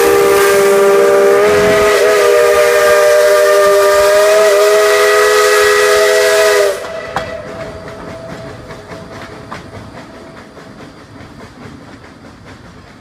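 Tweetsie Railroad #12, a narrow-gauge steam locomotive, blowing a long, loud chime whistle of several notes sounding together, which cuts off a little past halfway. After it, the train running and a faint regular beat fade away as the locomotive pulls away.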